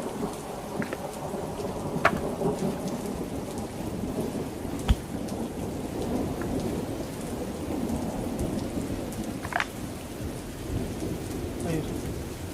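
Heavy rain pouring steadily, with thunder rumbling under it. A few sharp clicks stand out over the rain.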